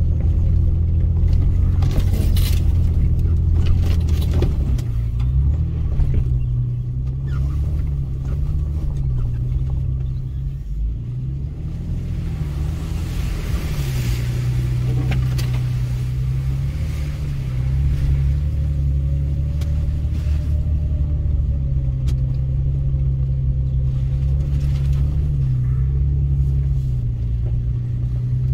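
Toyota FJ Cruiser's 4.0-litre V6 engine running at low revs off-road, its pitch rising and falling with the throttle in the first half, then holding steadier. Scattered knocks and rattles come through, mostly in the first few seconds.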